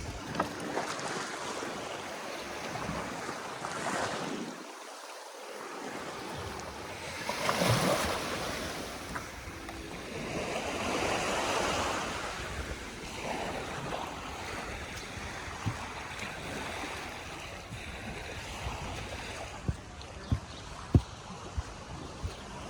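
Sea waves washing onto a beach, the surf swelling up and falling back a couple of times, with some wind on the microphone. A few short sharp taps come near the end.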